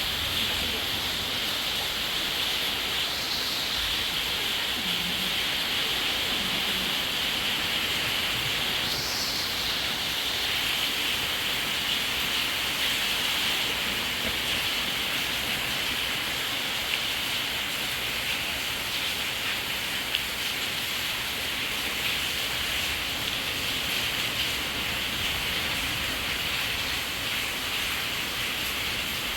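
Heavy rain falling steadily in a downpour, an even hiss.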